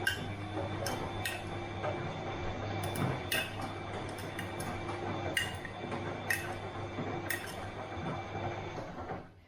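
Bosch washing machine tumbling a load: a steady motor hum with irregular sharp metallic clinks and knocks against the drum. The drum stops near the end.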